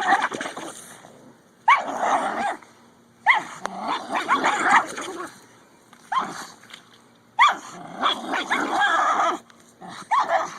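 A dog barking and growling in short bursts every second or two, the play growls and barks of a tug-of-war game.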